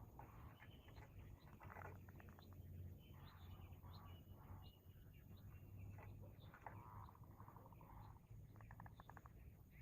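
Faint birds chirping, short calls and a few quick trills, over a steady low hum.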